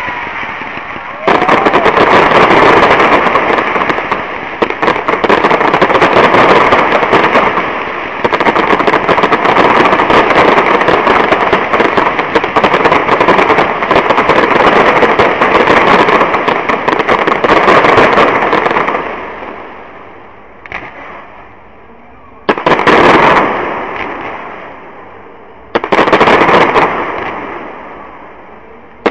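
Fireworks display: a sudden start about a second in, then a long, dense barrage of bangs and crackle that fades away. Three separate loud bursts follow a few seconds apart near the end.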